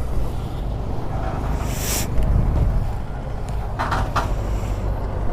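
Steady low rumble of road vehicle noise, with a brief hiss about two seconds in and a couple of short sounds near four seconds.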